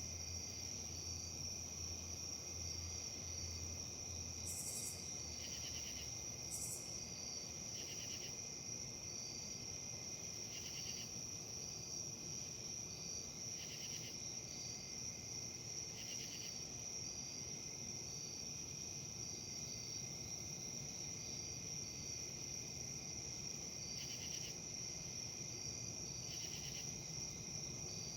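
Insect chorus, crickets by the sound of it: a steady high-pitched trill with short chirps repeating several times a second, and a lower buzzing chirp that returns every two to three seconds.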